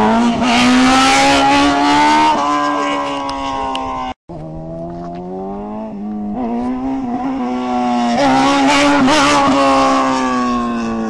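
Honda CBR1000 sport bike's inline-four engine revving hard under acceleration, the pitch climbing and holding high, then easing off. The sound cuts out for a moment about four seconds in, then the engine winds up high again and falls away near the end.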